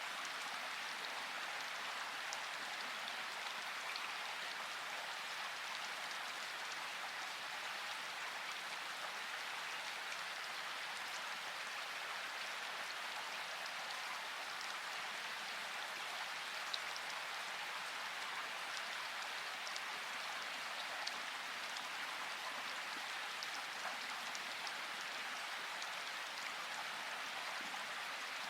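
Steady rainfall, an even hiss of rain with scattered individual drop ticks now and then.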